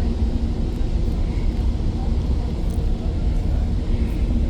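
Steady low rumble of a GO Transit commuter train heard from on board, with a faint steady hum under it, as the train comes into a station.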